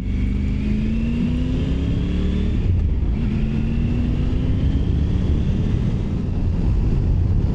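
Triumph Tiger 900 Rally Pro's three-cylinder engine pulling under acceleration. Its pitch rises, drops sharply about three seconds in as it shifts up a gear, then rises again, over a steady rumble of wind and road.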